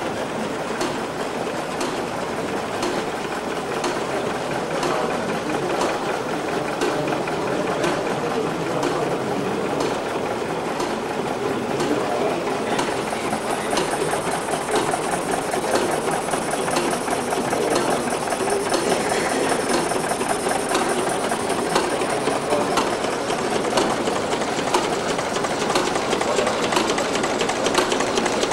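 A small machine running steadily with a fast mechanical clatter and evenly spaced ticks.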